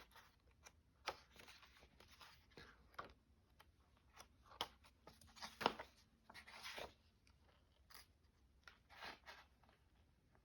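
Faint paper handling: scattered short rustles of sheets or book pages with a few light, sharp taps, the loudest a little past halfway.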